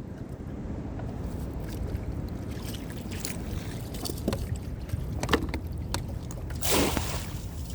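Water sloshing and slapping against a kayak hull on choppy ocean, with a steady low wind rumble on the microphone, a few light knocks, and one louder splash near the end.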